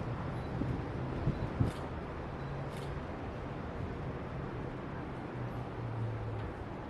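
Steady outdoor background rumble with a low engine hum, and two faint clicks about two and three seconds in.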